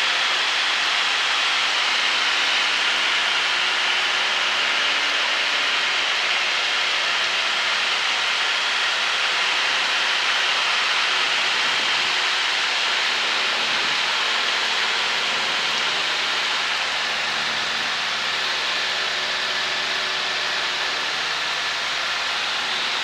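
Cessna 152 in cruise flight heard from inside the cabin: its four-cylinder Lycoming engine and propeller drone steadily under a heavy hiss of airflow.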